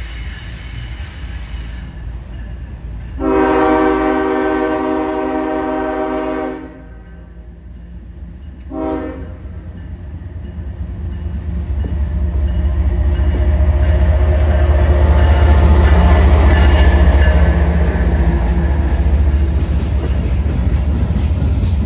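Train horn: a long blast, then a short blast about two seconds later. The deep rumble of a passing train then builds up and stays strong.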